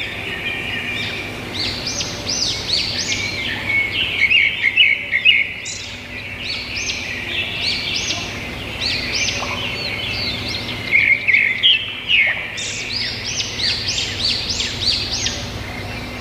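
Birds chirping and calling: rapid, overlapping runs of short, sweeping high notes that come in bursts with brief lulls, over a faint steady low hum.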